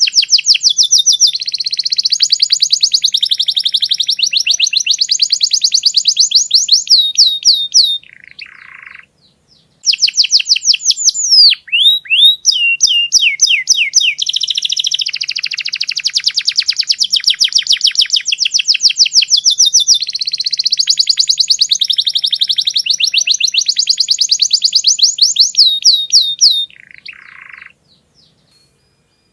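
Canary singing long, loud trills of very rapid repeated high notes. The song twice breaks off with a short, lower buzzy phrase and falls silent, once for about two seconds and again near the end.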